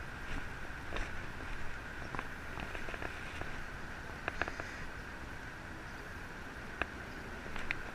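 A few sharp, irregular clicks of a DSLR camera's shutter over a steady background hum.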